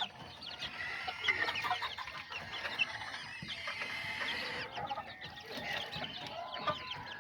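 A flock of young kikiriki bantam chickens clucking and chirping, many short overlapping calls.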